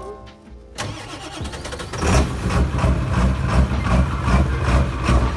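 Ford 7.3 L Power Stroke diesel turbo V8 in a 1994.5 dually pickup being started: the starter cranks for about a second, then the engine catches about two seconds in and settles into a loud, rhythmic idle.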